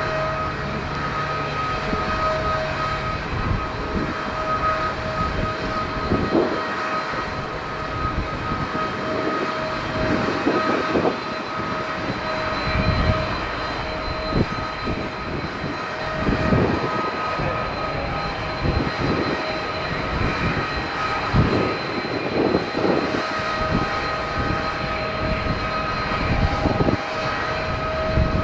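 Airliner engines running at taxi, heard from inside the cabin: a steady whine with constant high tones over a noise bed. Uneven low rumbles come and go every second or two as the plane rolls toward the gate.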